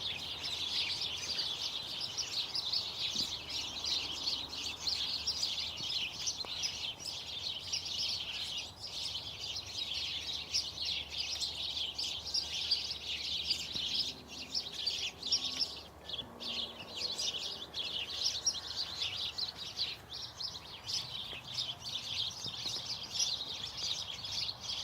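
Many small birds chirping together in a dense, continuous chorus of high twittering.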